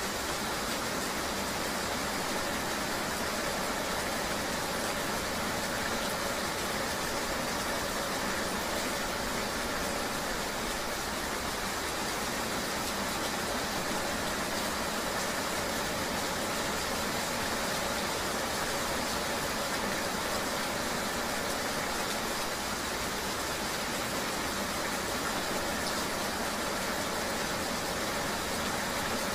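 Steady, unchanging wash of rain and road noise, as heard riding a motorbike in the rain, with a faint engine hum underneath.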